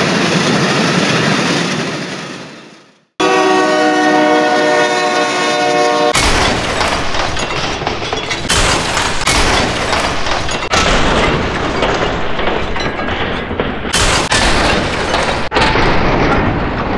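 Dubbed-in train sound effects: a rumbling noise fades away over the first three seconds and cuts out, then a train horn sounds a held chord for about three seconds, followed by the rapid rattling clatter of a train running on rails.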